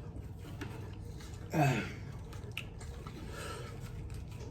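Faint mouth and eating sounds with a few small clicks over a low steady hum, and one short vocal sound falling in pitch about a second and a half in.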